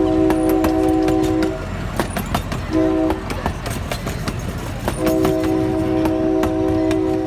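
A train's multi-chime whistle sounding a long blast that ends about a second and a half in, a short blast around three seconds, then another long blast from about five seconds on. Rapid clicks of wheels over rail joints and a low rumble of the moving train run underneath.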